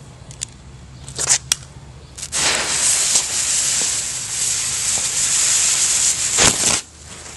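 A few sharp clicks, then yellow quick fuse burning with a loud, steady hiss for about four and a half seconds, cutting off suddenly near the end.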